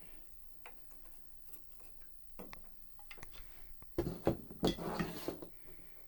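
Wooden piano keys and small action parts clacking and knocking as they are handled and set down: a few light knocks, then a louder clatter about four seconds in.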